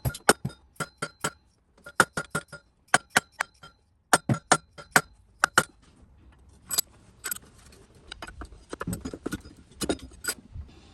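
Plastic hammer tapping the intake manifold of a 2005 Chrysler Pacifica to knock it loose from the engine: quick runs of sharp, clinking taps, fewer and softer in the second half.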